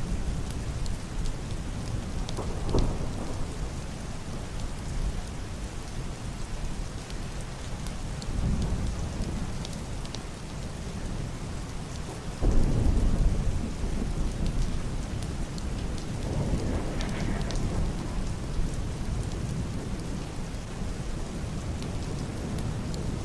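Heavy rain drumming steadily on a wooden roof and glass window, with muffled thunder rumbling several times; the loudest rumble breaks in suddenly about halfway through.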